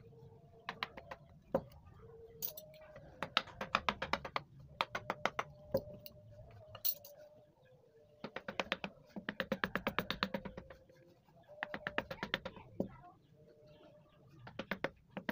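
A wooden mallet tapping a carving chisel into wood, in quick runs of light, rapid strikes with short pauses between them.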